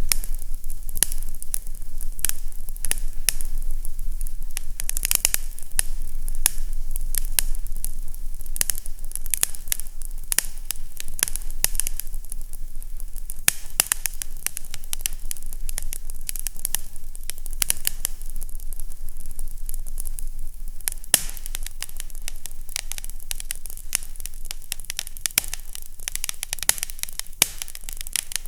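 Wood fire crackling in a fireplace: a steady stream of small pops and snaps over a soft hiss, with a low steady hum beneath.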